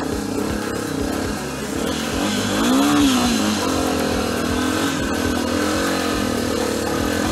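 Off-road trail motorcycle engine revving as the rider accelerates along the trail, the pitch rising and falling with the throttle, most sharply about three seconds in.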